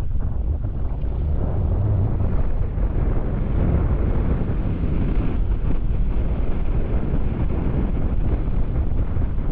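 Steady wind rush buffeting an action camera's microphone on a moving motorbike, a dense low rumble.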